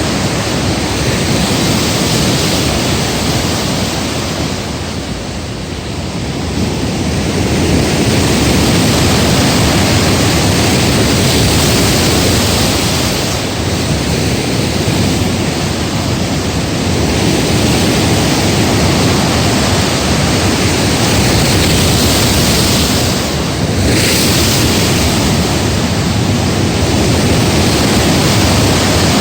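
Heavy storm surf from a typhoon breaking against a breakwater, with strong wind buffeting the microphone: a loud continuous rush that eases a little about five seconds in and swells back up soon after.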